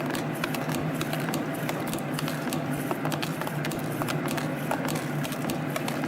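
CNC spring coiling machine running, forming compression springs with one closed end: a steady hum under rapid, irregular clicking and ticking.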